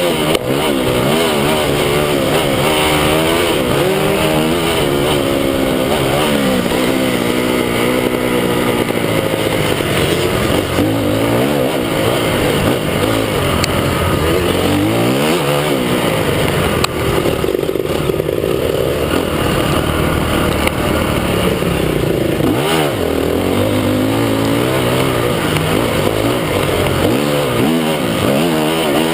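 Several motocross bikes running on the track, their engines revving up and dropping back over and over as the riders work the throttle and gears, the sounds of different bikes overlapping.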